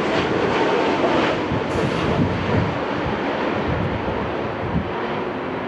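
Jet airliner engines running loud and gradually fading as the aircraft moves away, with wind buffeting the microphone.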